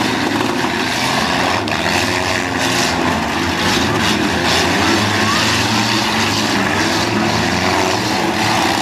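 Several demolition derby cars' engines running loudly together, their pitches wavering as they rev.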